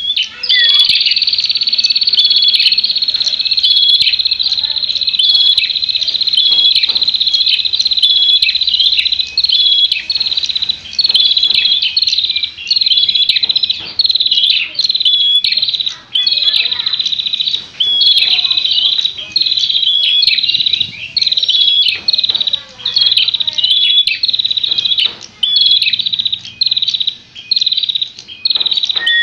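A prenjak (prinia) singing a loud, rapid, high-pitched trill of fast repeated notes, broken into phrases about once a second and kept up without pause. It is the prenjak's fighting song, the kind used as a lure recording to provoke other prenjak.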